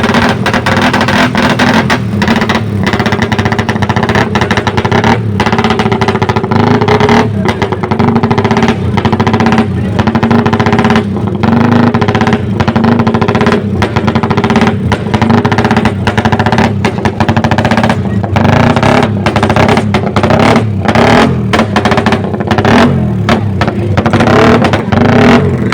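Motorcycle engines running loudly at fairly steady revs, with frequent brief dips in the sound.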